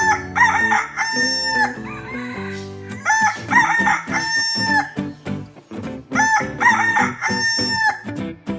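Rooster crowing three times, about three seconds apart, over light background music.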